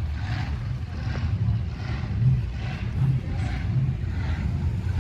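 Car engine idling, with an uneven beat in its low note.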